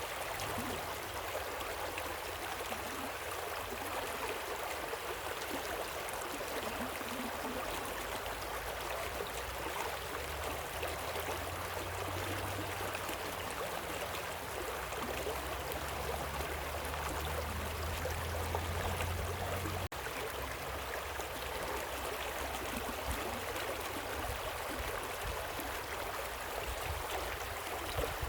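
Steady rushing of a waterfall and river, with a low rumble underneath that swells for a while and drops back after a very brief break about two-thirds of the way in.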